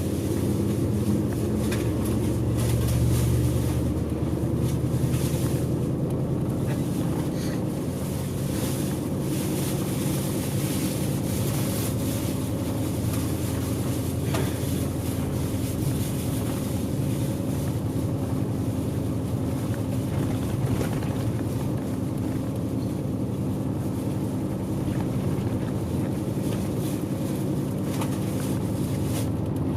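Diesel bus running on the road, heard from inside the passenger cabin: a steady low engine hum with tyre and road noise.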